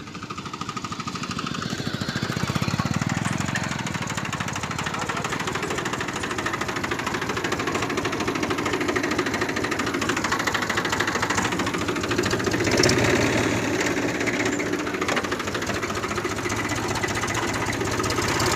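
Diesel tractor engine running hard with a steady rapid knocking beat, pulling a wrecked car free.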